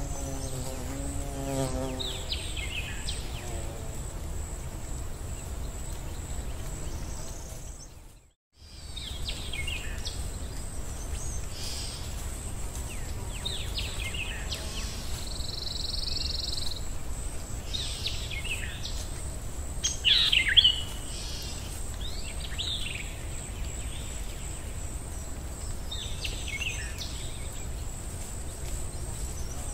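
Birds chirping at intervals over a steady background hiss, with an insect buzzing briefly at the start. The sound drops out for a moment about eight seconds in.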